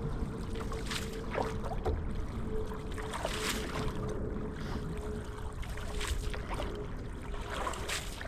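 Water splashing and sloshing around a canoe, with irregular splashes from the paddle or hull every second or two.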